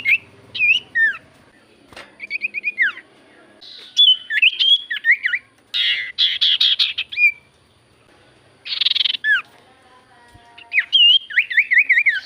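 Common iora (cipoh) calling in a lure recording: loud, clear whistled phrases that slide up and down, broken by harsh rasping chatter about six and nine seconds in, and a quick warbled trill near the end.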